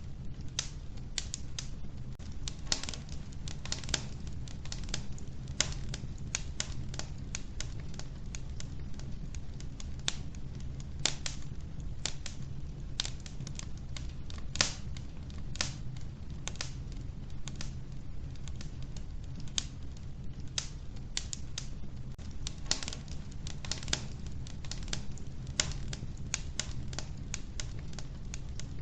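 Wood fire burning in an old wood-burning stove, crackling: irregular sharp pops and snaps, often several a second, over a low steady rumble.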